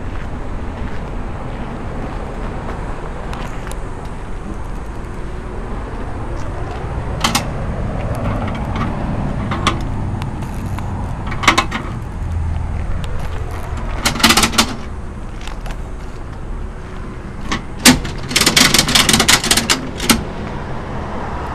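Metal clanks and rattles of a motorcycle being loaded onto a mobile dyno trailer, with a quick run of clicks and rattling near the end, over a steady low rumble.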